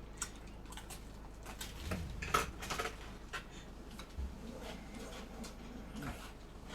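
Scattered light clicks and knocks of small objects being handled, like dishes or utensils, with a louder knock about two and a half seconds in.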